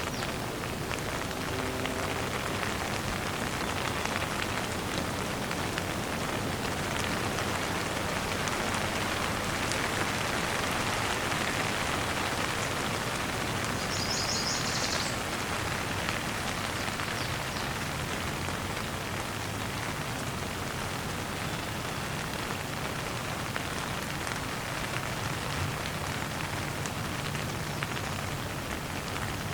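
Steady rain falling and pattering on surfaces. A brief high, rapid chirping trill comes about halfway through.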